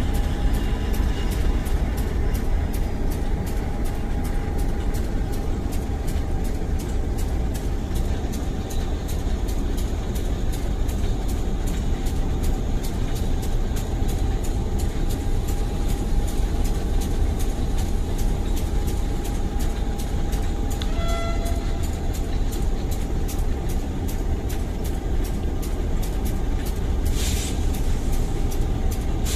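Passenger train of Russian-built coaches behind a Henschel diesel locomotive rolling slowly into the station: a steady rhythmic clatter of wheels over the rails with a thin steady squeal underneath. A brief short toot sounds about two-thirds of the way through, and a short hiss comes near the end.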